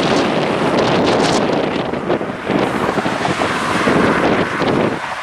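Wind buffeting the microphone: a loud, steady rush of noise that eases briefly near the end.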